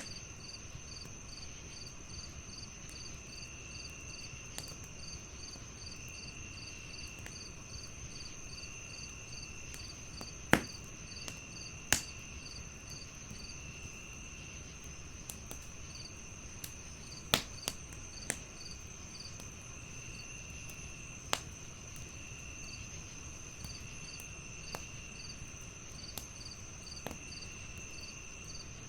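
Crickets chirping steadily in a layered chorus, one with a regular pulsed chirp and another with a trill that comes and goes every couple of seconds, over the sparse pops and crackles of a wood fire in a fireplace. The loudest fire pops come about ten, twelve and seventeen seconds in.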